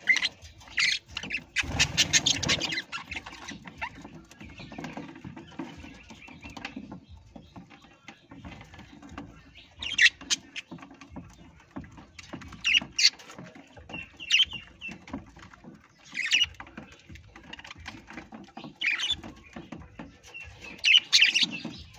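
A parrot giving short, sharp squawks and chirps every few seconds, mixed with small clicking and scratching sounds.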